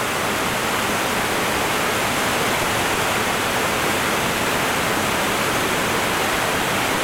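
Whitewater of a creek rushing over rocks, a steady, even rush without a break.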